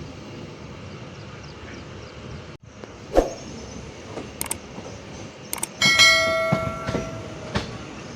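Train running with a steady rumble and a few sharp knocks. About six seconds in comes a loud metallic clang that rings for about a second.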